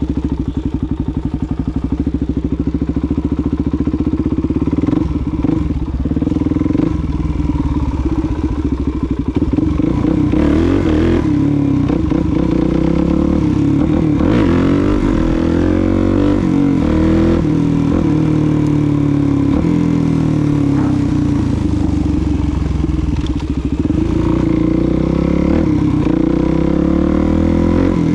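Suzuki DR-Z400SM's single-cylinder four-stroke engine running at a steady low pitch for the first few seconds, then accelerating and easing off again and again, its pitch rising and falling through the gears.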